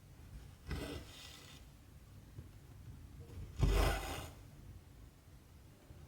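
Cotton embroidery thread pulled through 14-count cross-stitch fabric twice, a rasping rub each time; the second pull, about halfway through, is louder.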